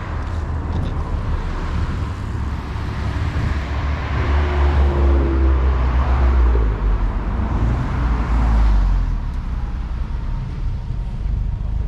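A car driving past at low speed, its engine rumble swelling to a peak midway and then fading away.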